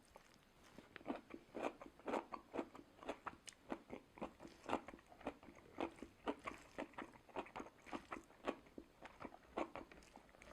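A person chewing and biting food close to the microphone, with crisp crunching clicks about twice a second, starting about a second in.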